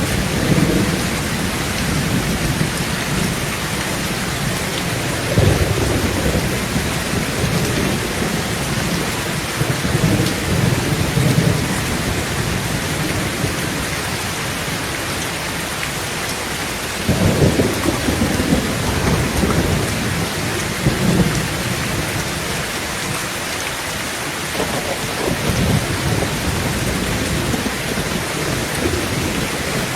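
Heavy rain falling on a tin roof, a steady hiss, with thunder rumbling in several times; one roll starts suddenly a little past halfway.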